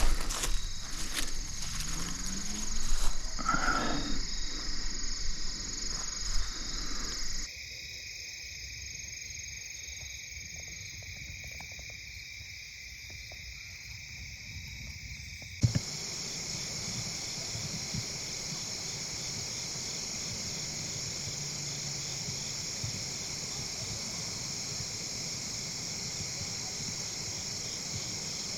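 Steady high-pitched chorus of field insects such as crickets, trilling without a break. Its level and character change suddenly twice, and a few knocks and handling noises sound in the first seconds.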